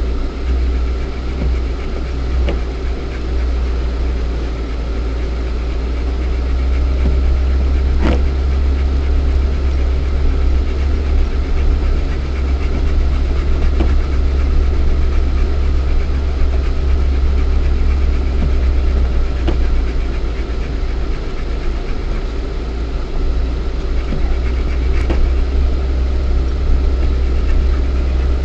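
Lada Niva 1.7i's four-cylinder petrol engine and drivetrain running steadily while the car drives off-road, heard from inside the cabin as a deep, even rumble. A couple of short, sharp knocks cut through it, one about a third of the way in and one near the end.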